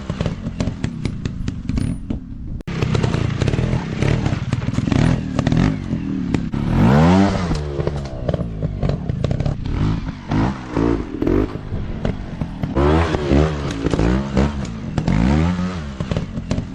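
Dirt bike engine revving up and down again and again, with frequent sharp clattering knocks. The sound drops out briefly about two and a half seconds in.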